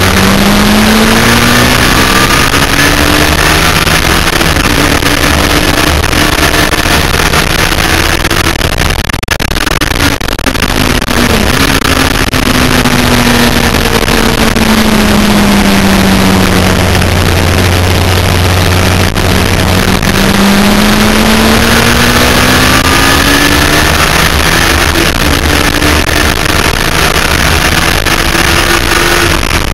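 Yamaha FZR1000's inline-four engine under racing load, heard onboard with heavy wind noise. Its pitch climbs at the start, falls to a low steady note about halfway through as the bike slows, then climbs again as it accelerates.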